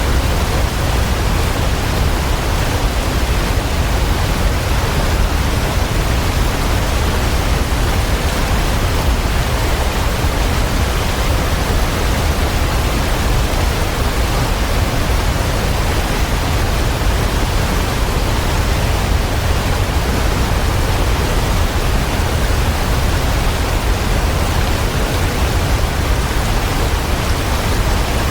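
Waterfall: a steady, unchanging rush of falling water, heaviest in the low end.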